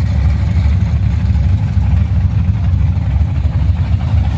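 Car engine running at idle with a low, steady rumble.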